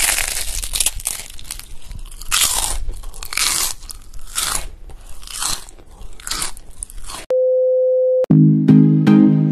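Close-up crunching of crispy food being bitten and chewed, a loud crunch about once a second. Near the end a steady test-card beep sounds for about a second, then plucked-string intro music starts.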